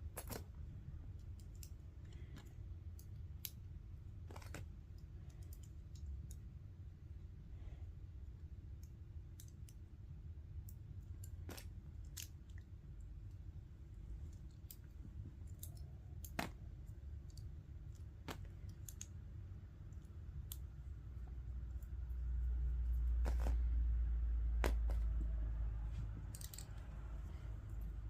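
Lego bricks clicking and snapping as pieces are handled and pressed together, in scattered single clicks. A low rumble swells for several seconds about three-quarters of the way through.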